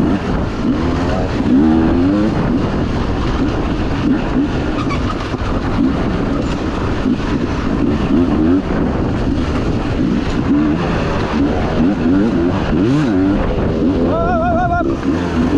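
Dirt bike engine under racing throttle, its pitch climbing and dropping again and again as it is revved and backed off, over steady rough wind and riding noise.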